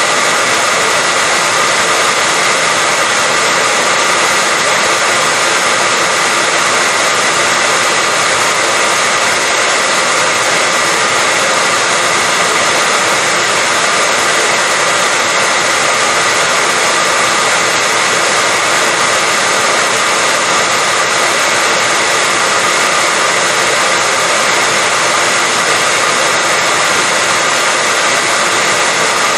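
Hair dryer running steadily on one setting: an unchanging rush of air with a faint steady whine from its motor.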